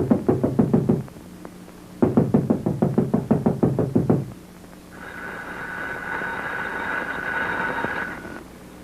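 Two runs of rapid, even knocking, about nine knocks a second, the first ending about a second in and the second lasting about two seconds. Then a steady high tone is held for about three seconds and stops.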